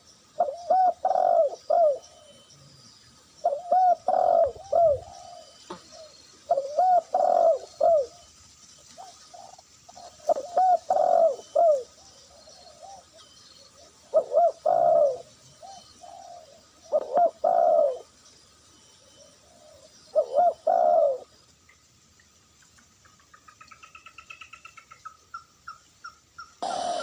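Dove cooing in repeated phrases of arched notes, one phrase about every three seconds, stopping a few seconds before the end. Near the end a fainter, quicker trill of higher notes rises and falls.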